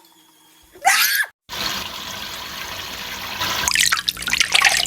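A parrot's short squawk, then steady running shower water, with the bird splashing about in it for the last second or so.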